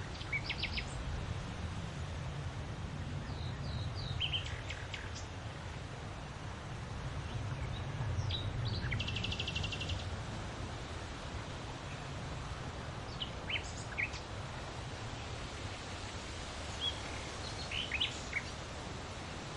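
Steady wind noise with a low rumble. Small birds chirp here and there over it, with a short rapid trill about nine seconds in.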